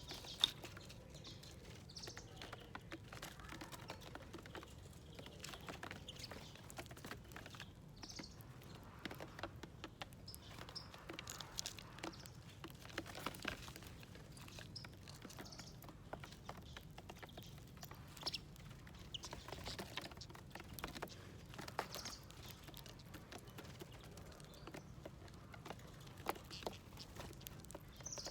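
Small wild birds at a seed dish: brief high chirps every few seconds over irregular light tapping and pecking on the dish.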